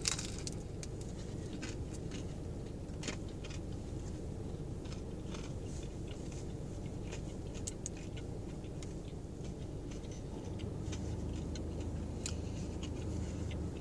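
A bite into a grilled buffalo chicken flatbread sandwich, then steady chewing with small wet mouth clicks, over a low steady hum.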